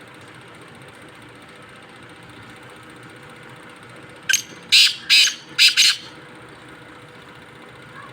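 Black francolin (black partridge) calling: one short phrase of four loud, harsh notes about four seconds in, a brief first note followed by three in quick succession.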